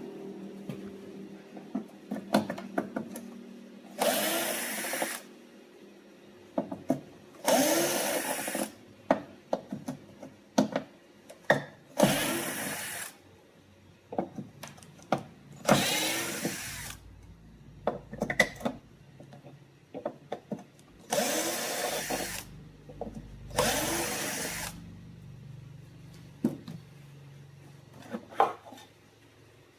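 A small handheld power tool runs in about seven short bursts of roughly a second each, its motor spinning up at the start of every burst. Sharp clicks and knocks of handling fall between the bursts.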